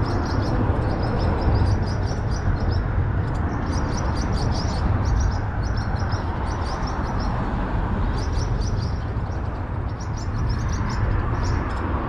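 A bird chirping in quick high trills, phrase after phrase, over a steady low rumble of highway traffic.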